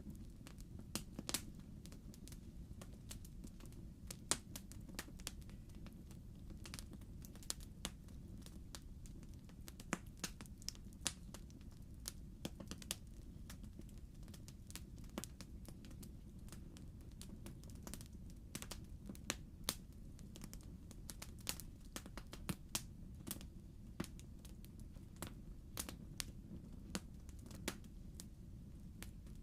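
Log fire crackling in a fireplace: irregular sharp pops and snaps over a steady low rumble.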